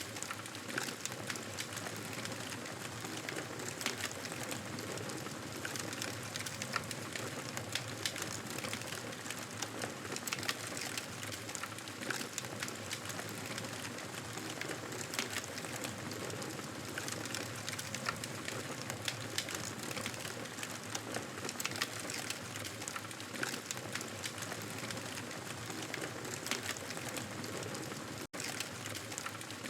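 Wood fire crackling: a steady hiss scattered with many small irregular pops and snaps. The sound cuts out for a split second near the end.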